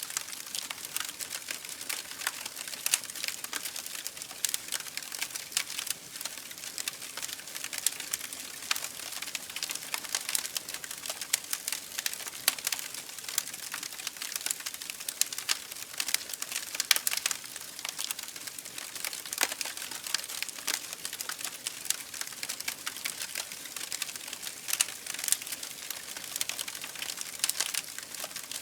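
Campfire burning, with wood crackling and popping in a dense, irregular run of sharp snaps over a steady hiss.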